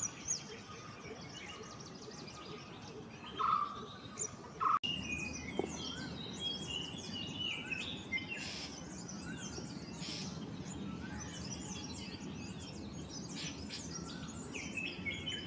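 Wild birds calling. First come a couple of short, low, resonant notes, the white-cheeked barbet's call. Then, after an abrupt change about five seconds in, there are many quick high chirps and twitters from several birds over a steady background hiss.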